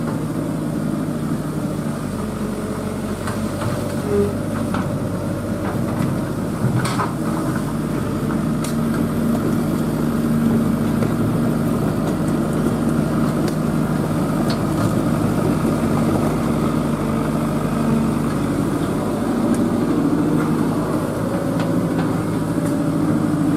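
Excavator's diesel engine running steadily while it works, with a few brief sharp cracks about seven and nine seconds in.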